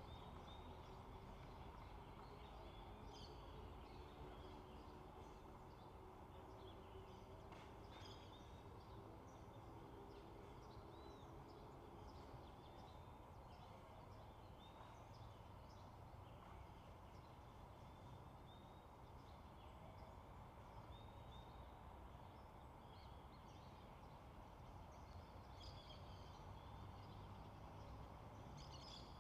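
Faint bird calls: short chirps and whistles coming at scattered intervals over a steady low rumble of background noise.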